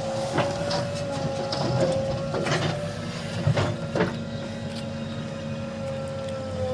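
Heavy diesel machinery running, with a steady high whine over the engine rumble. Several sharp knocks and clanks come in the first four seconds.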